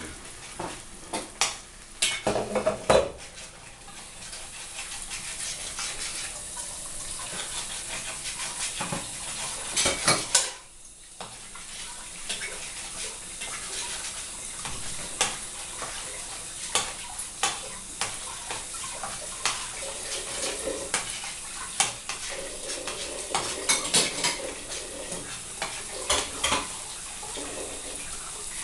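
Chopped bracken fern sizzling as it fries in hot oil in a stainless steel pan, with a metal spoon clinking and scraping against the pan many times as it is stirred. The sizzle briefly drops away about ten seconds in.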